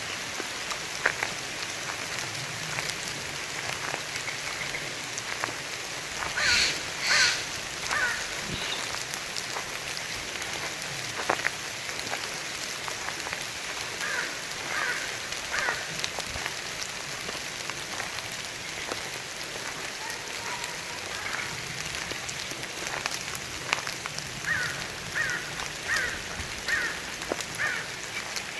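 Steady rain falling in a pine and fir forest, with scattered drops ticking close by. A bird calls loudly twice about six to seven seconds in, then gives short calls repeated several times, about halfway through and again near the end.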